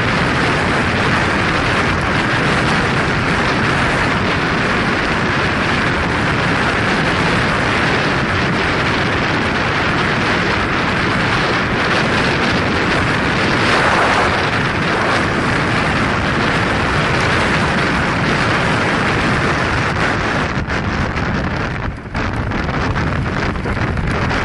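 Steady rushing wind and road noise of a moving vehicle, with a brief drop in level near the end.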